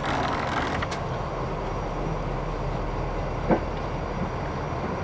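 Train of stainless-steel passenger coaches rolling slowly, a steady low rumble with one sharp clank about three and a half seconds in.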